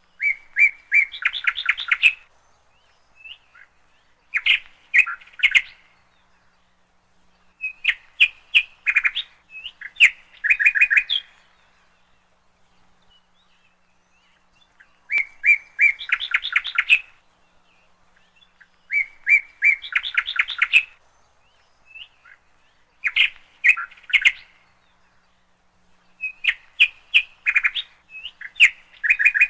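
Bird chirping in phrases of rapid, quick chirps a second or two long, repeated every few seconds with short pauses between.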